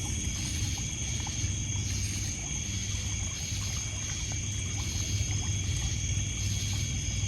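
Night chorus of crickets and other insects trilling steadily in several high pitches, one of them pulsing about twice a second, over water lapping on a pebble beach and a low rumble, with small scattered crackles from a campfire.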